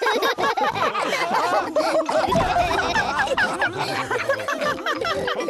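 Several cartoon pig characters laughing together, many short rising and falling laughs from different voices overlapping.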